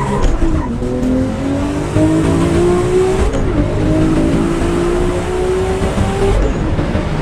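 High-horsepower sports car engine accelerating hard at full throttle, its pitch climbing steadily in each gear and dropping back at each upshift, several times.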